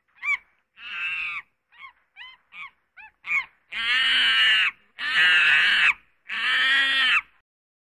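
An animal calling: a few short pitched calls, then three long calls of about a second each.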